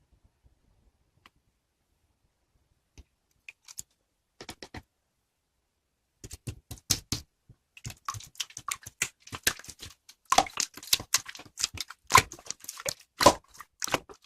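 Irregular sharp clicks and taps, a few scattered at first, then a quick, dense run of them from about six seconds in.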